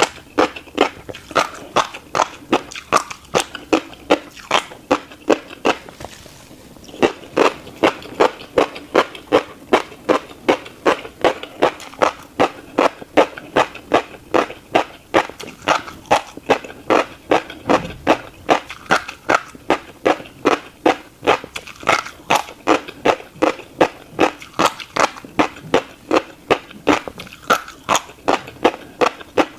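Close-up chewing of a mouthful of tiny crunchy black seeds: sharp, rhythmic crunches about three a second, with a short pause about six seconds in.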